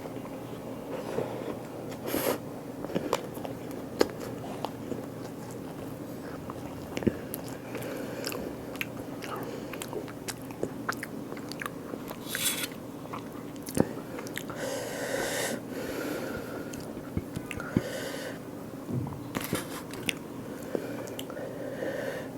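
A person eating close to the microphone: chewing and biting with many sharp, wet mouth clicks and a few brief, louder crunchy or slurpy bursts. A steady low hum runs underneath.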